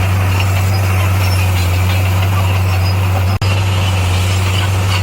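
Heavy diesel engine of a crawler bulldozer running steadily with a deep, constant hum, broken by a momentary dropout about three and a half seconds in.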